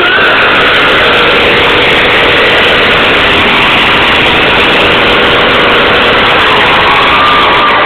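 Motorcycle engine running loudly and steadily, close to the microphone.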